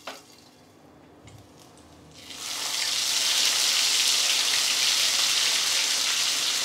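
Ginger-garlic paste and whole spices sizzling in hot oil in a wok. Quiet at first, the sizzle comes in loud about two seconds in and then holds steady.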